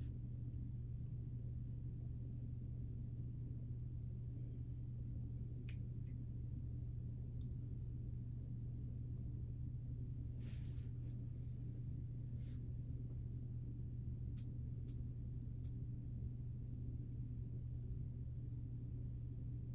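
A steady low hum, with a few faint clicks and a brief soft rustle about ten seconds in.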